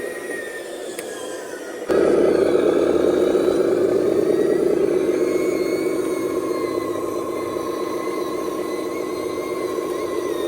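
Radio-controlled dump truck's electric motor and gearbox whining under load, with several steady whine tones; it jumps suddenly louder about two seconds in and then runs on steadily.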